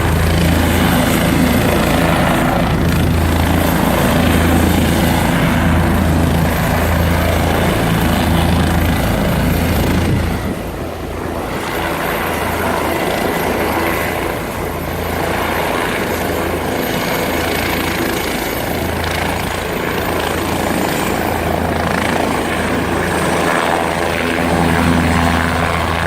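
Helicopter running loud and steady, its rotor beating in a low throb. The level dips briefly about ten seconds in.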